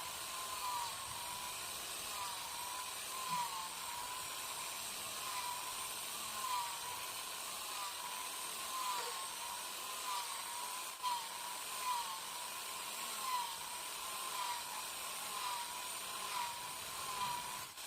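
Small power tool's electric motor running steadily with a whir, its pitch wobbling slightly as the load changes.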